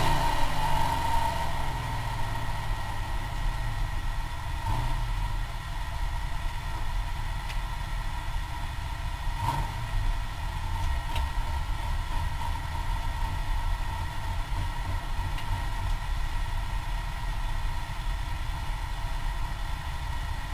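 Holden VK Commodore engine heard from inside the cabin, easing off over the first couple of seconds and then running steadily at low revs as the car rolls slowly.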